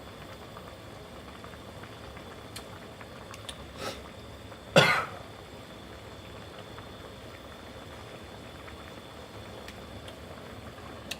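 A person coughs once, loudly and briefly, about five seconds in, over a steady bubbling of a pot of pork curry simmering, with a few light clicks shortly before.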